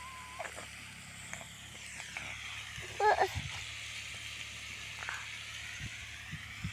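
Boti (goat tripe) sizzling faintly as it fries in a pan over a wood fire, with a few faint crackles. A brief pitched call cuts in about three seconds in.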